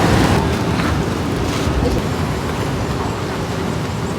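Steady rushing of wind on the microphone, with surf washing in underneath.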